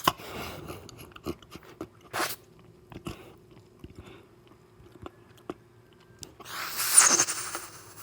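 Close-miked ASMR eating sounds: scattered short wet mouth clicks and chewing, with a louder noisy wet stretch of under a second near the end.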